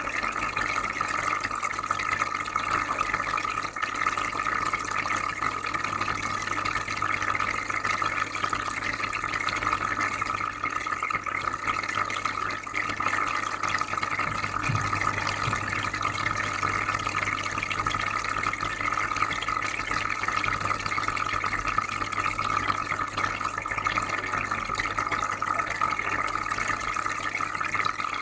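Aquarium filter running: steady bubbling and trickling water over a low electrical hum.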